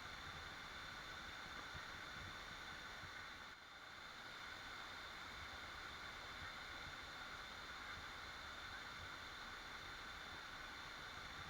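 Steady, even rush of a waterfall, dipping briefly about three and a half seconds in.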